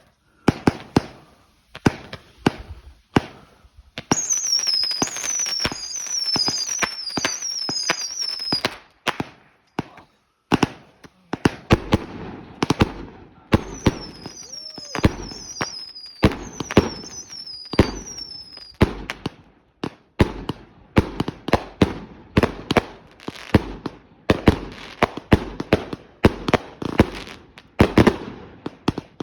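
Consumer fireworks going off in rapid succession: a continuous string of sharp bangs and crackles. Twice, a quick series of short, high whistles that each fall in pitch rides over the bangs.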